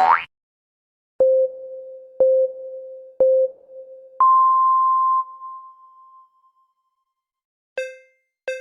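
Sound effects: a short rising cartoon bounce glide, then a countdown of three short low beeps a second apart followed by one longer, higher beep, the race-start countdown signal. Near the end, two short bell-like pings of a second countdown begin.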